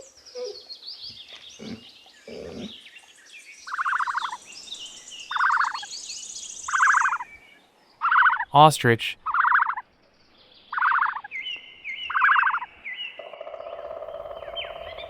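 Puppy yelping: a series of short, high, pitched yelps about a second and a half apart, with birds chirping in the background. About two-thirds of the way in, a second series of similar short calls and a buzzy sound start from another animal.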